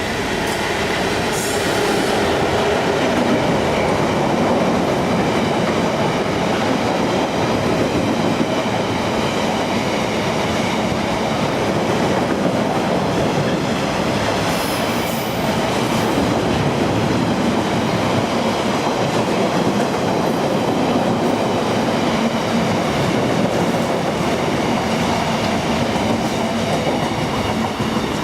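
Class 66-hauled gypsum freight train running past, its wagon wheels rumbling steadily on the rails, with a brief high wheel squeal about a second in and another about midway.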